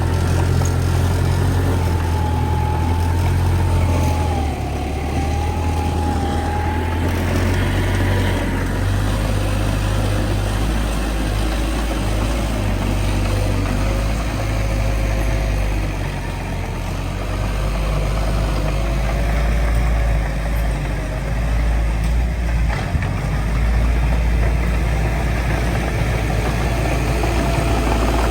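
Bulldozer's heavy diesel engine running steadily under load, a deep continuous drone, with a faint wavering whine above it.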